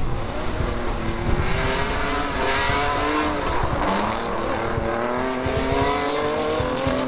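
Drift car engine revving hard under load, its pitch climbing, falling back about four seconds in, then climbing again, with tyre squeal from the car sliding.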